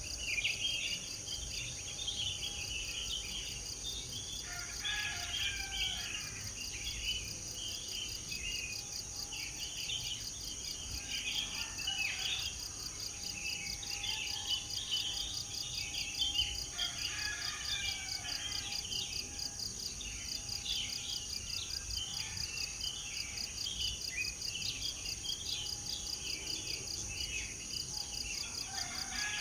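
Small birds singing and calling in many short chirps and trills, over a steady high insect chirring, like crickets, that runs without a break.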